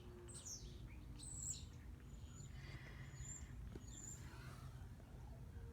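Birds chirping: a few short, high, downward-sweeping chirps followed by thin high whistles, over a faint steady low rumble.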